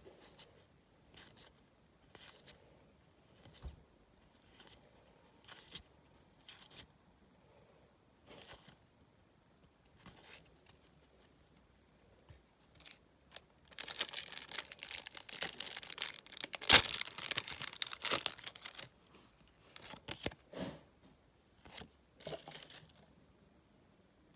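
Match Attax trading-card packet being torn open, with crinkling of its wrapper for about five seconds in the middle. Before it come soft clicks and rustles about once a second from cards being handled, and a few more rustles follow.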